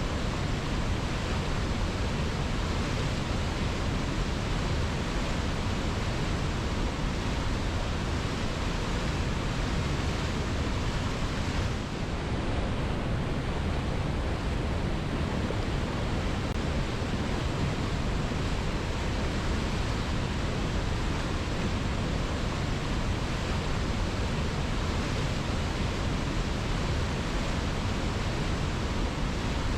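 Waterfall rushing steadily: a dense, even hiss of falling water, with a brief slight dip in level about twelve seconds in.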